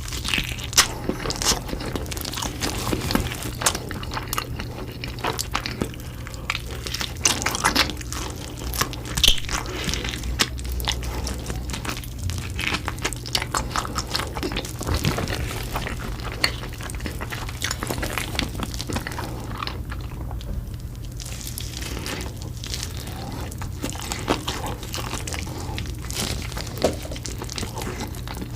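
Close-miked eating: bites and chewing with crunching and crackling, in many quick clicks, over a steady low hum.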